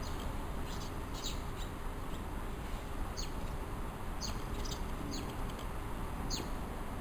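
Small bird chirping: a series of short, high chirps, each quickly falling in pitch and irregularly spaced, over a steady background hiss.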